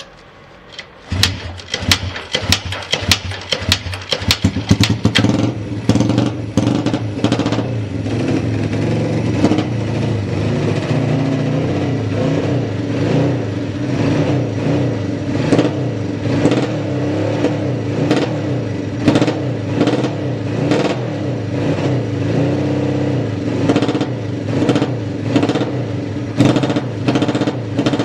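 Honda CB175 parallel-twin four-stroke motorcycle engine starting about a second in, firing unevenly for a few seconds, then settling into a steady idle with no abnormal noise.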